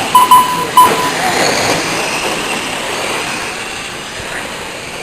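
Engines of racing sport trucks running on the track, their pitch rising and falling as they accelerate and pass, over a steady noisy rumble. Several short, sharp beeps in the first second are the loudest sounds.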